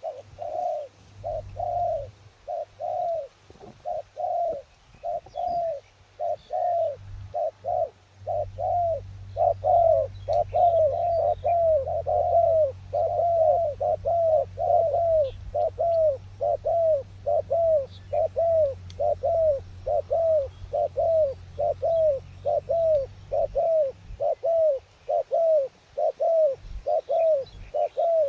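Doves cooing over and over in short curved calls. The calls come in spaced groups at first, then run on continuously at about two a second.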